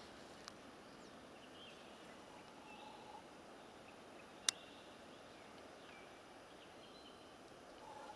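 Quiet outdoor ambience with faint, scattered high chirps of small birds, and one sharp click about halfway through.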